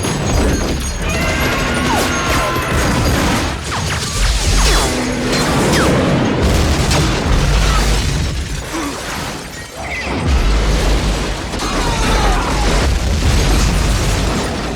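Action film soundtrack: a dramatic score mixed over repeated heavy booms and crashes of battle, dense and loud throughout.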